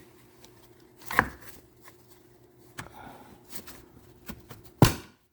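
Hard plastic knocks and clicks as parts are fitted into a car's plastic air box by hand: one sharp knock about a second in, soft handling rustles, then a louder knock near the end.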